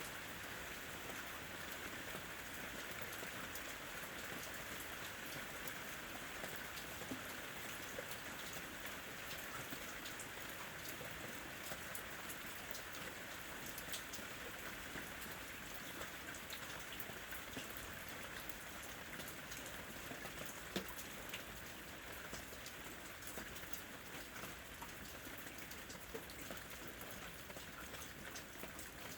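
Steady rain with many individual drops ticking through an even hiss, and one sharper drop-like click about 21 seconds in.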